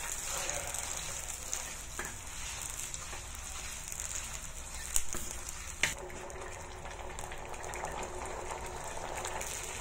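Chilli paste and sliced shallots sizzling steadily in hot oil in a stainless steel pan while a wooden spatula stirs them. Two sharp knocks come about halfway through, under a second apart.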